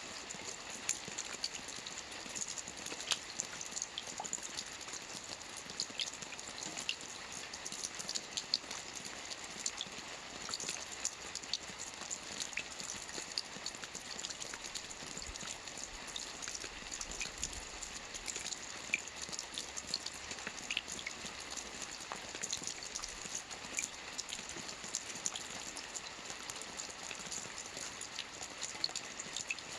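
Steady rain falling on a lake, a continuous hiss with many small drop patters and splashes throughout.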